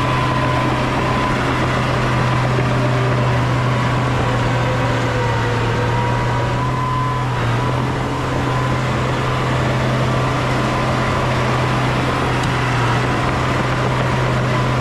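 Heavy diesel engine of earthmoving machinery running steadily, a constant low drone with a faint wavering whine above it.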